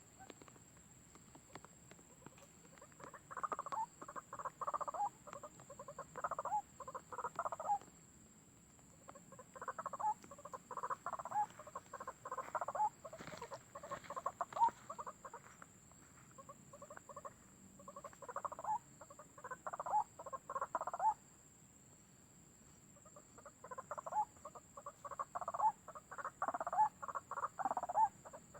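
White-breasted waterhen (ruak-ruak) calling: bouts of rapid, harsh repeated notes, each lasting a few seconds, with short pauses between. A steady high-pitched whine runs underneath.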